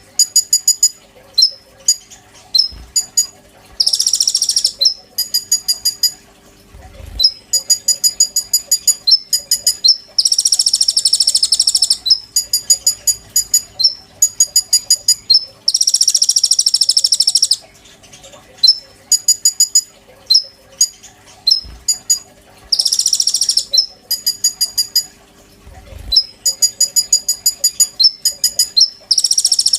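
Konin songbird singing hard: quick runs of sharp, high chirps alternating with dense, buzzy trilled phrases of one to two seconds each.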